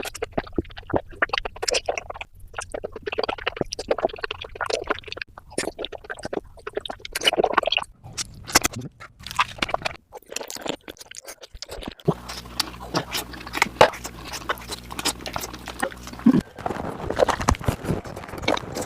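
Close-miked eating of oysters, sped up to double speed: rapid wet slurps, smacks and chewing clicks. A low steady hum joins about two-thirds of the way in.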